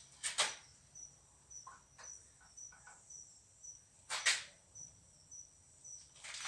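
Two sharp metal knocks and a few small clicks from hand tools fitting a circlip into the groove of a truck cab-tilt bearing housing. Under them a faint, high-pitched chirp repeats at an even rate, about two a second.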